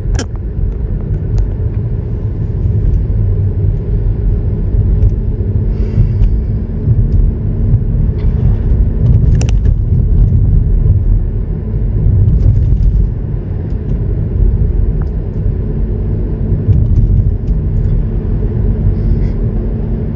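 Road and engine noise heard from inside a vehicle driving along town streets: a steady low rumble with a constant hum.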